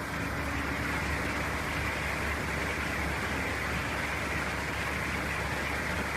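Steady, even hiss of background noise, with no speech.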